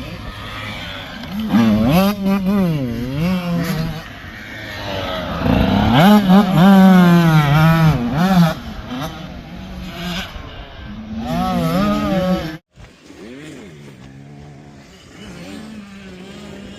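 85cc dirt bike engine revving up and down as it is ridden, its pitch rising and falling again and again. It is loudest in the middle, cuts off suddenly about three quarters of the way through, and is fainter and steadier after that.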